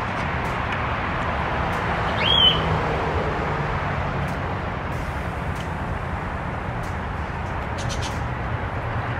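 Steady outdoor background noise with a low hum and scattered faint clicks; about two seconds in, a single short high bird chirp that rises and then levels off.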